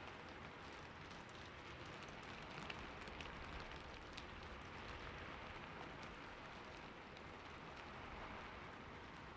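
Steady rain falling on a roof, an even patter with scattered louder individual drops, a few of them between about two and four seconds in.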